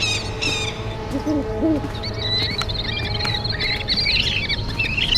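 Birds calling: a few low, arched notes a little over a second in, then a busy run of high chirps and trills over a steady low rumble.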